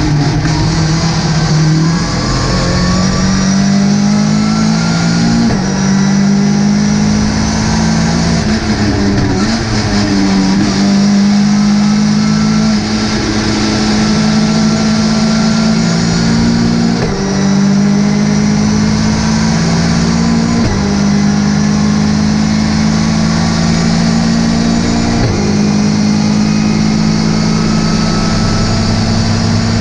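Ginetta GT5 race car engine pulling hard, its pitch climbing slowly in each gear and dropping sharply at each gear change, about six times.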